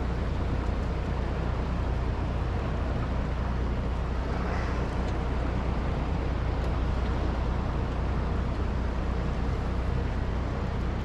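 Suzuki DF60A four-stroke outboard running steadily, a continuous low drone with a hiss of wind and water over it.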